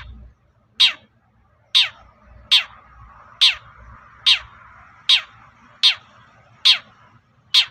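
Long-tailed shrike (cendet) giving a harsh call over and over, about one a second, each a quick downward sweep from high to low pitch.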